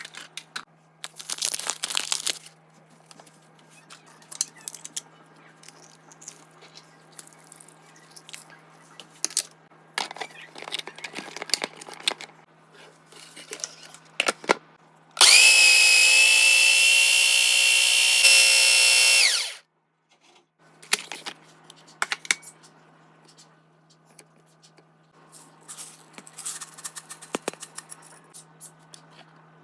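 An electric kitchen grinder's motor runs loudly and steadily for about four seconds around the middle, then stops quickly. Before and after it come scattered clinks and scrapes of kitchen utensils.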